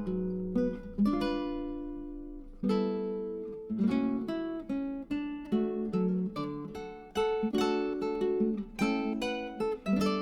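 Background music: acoustic guitar picking slow melodic notes that ring and fade, with the odd strummed chord.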